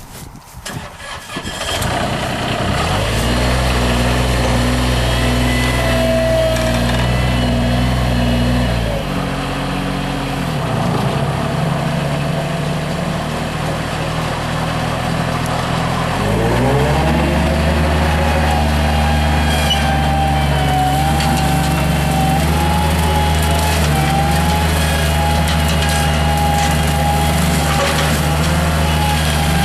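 Bobcat MT55 mini track loader's engine starting about a second in and settling into a steady run. The revs drop for several seconds around the middle, then climb again and hold steady with a higher whine over the engine.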